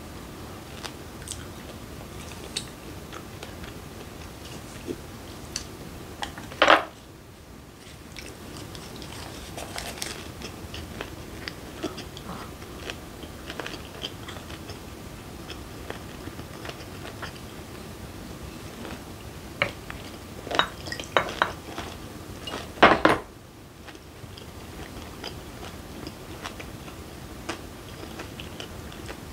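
Close-up chewing of a leaf-wrapped mouthful of raw fish and squid with chili and garlic: soft crunches and wet clicks throughout, denser around 20 seconds in. Two louder short sounds stand out, one about 7 seconds in and one about 23 seconds in.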